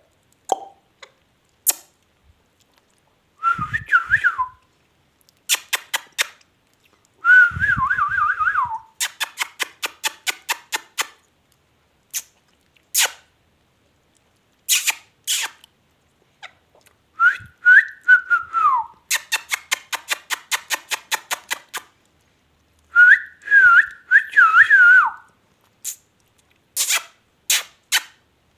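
Parrot whistling short warbling phrases, four in all, with quick trains of sharp clicks between them.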